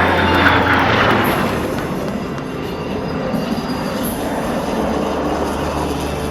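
Formation of an F-22 Raptor jet fighter and a P-51 Mustang passing over: a broad jet roar, strongest right at the start and easing off after a couple of seconds. Air-show music plays faintly underneath.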